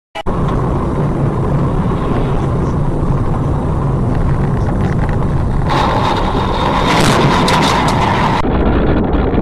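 Steady low rumble of a vehicle on the move: engine and road noise. It starts abruptly, and for a couple of seconds past the middle a brighter whine with rattling joins it, then stops abruptly.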